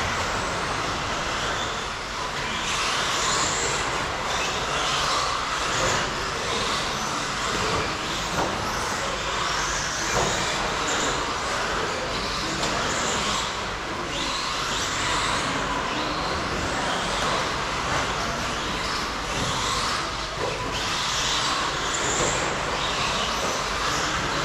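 Several radio-controlled stadium trucks racing around the track, their motors whining and tyres hissing in swells that rise and fade every few seconds as trucks pass, with a few light clicks.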